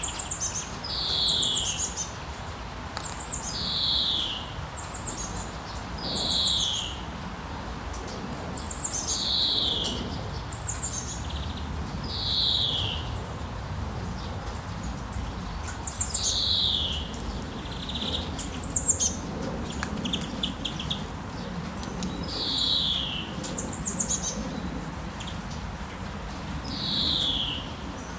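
Forest ambience with at least two kinds of bird calling over a steady low background hiss. One bird repeats a short downward-sliding whistle every two to four seconds, and between these come higher, quick trilled chirps.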